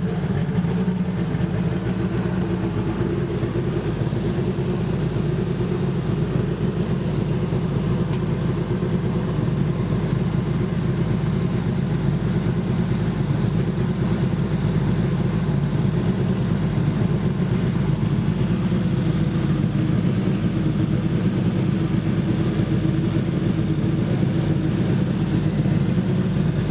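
Turbocharged LS/VTEC four-cylinder engine in an EG Civic running steadily at idle on its first start-up after the build.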